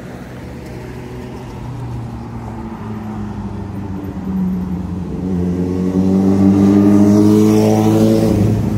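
Motor vehicle engine accelerating on the street, growing steadily louder with its pitch rising, and passing closest near the end with a rush of tyre noise.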